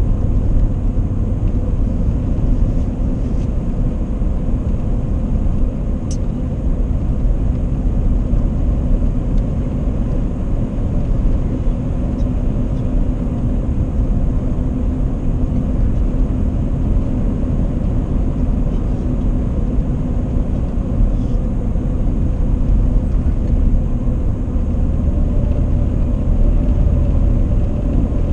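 A truck driving: a steady low rumble of road and engine noise with a constant drone.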